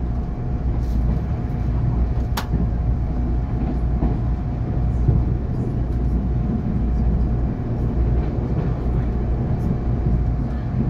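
Electric multiple-unit passenger train running at speed, heard inside the carriage: a steady low rumble of wheels on rail with a faint steady whine. A single sharp click comes about two and a half seconds in.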